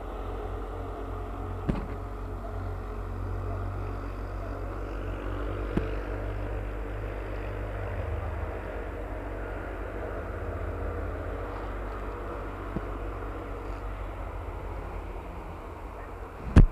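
Steady low hum of distant motor vehicles, with low wind rumble on the microphone and a couple of small clicks.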